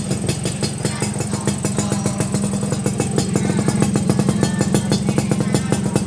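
Yamaha RX-King's two-stroke single-cylinder engine running steadily through an underslung racing exhaust, giving a fast, even train of exhaust pulses with no revving.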